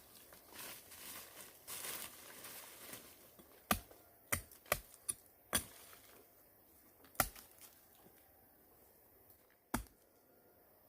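Rustling, then about seven sharp knocks or chopping strikes at irregular intervals, the hardest about seven seconds in.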